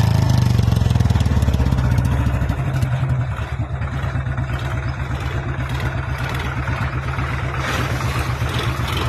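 Royal Enfield Bullet single-cylinder motorcycle engine running, easing down about three seconds in and then settling into a steady, evenly pulsing idle.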